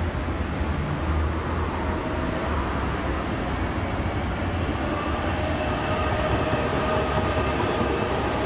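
Electric street tram running on rails: steady rolling rumble with faint whining tones from the traction motors and gearing.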